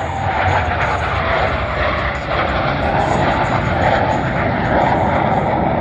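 Jet noise from Blue Angels F/A-18 Super Hornets flying low and slow in landing configuration: a loud, steady rush and rumble with no break.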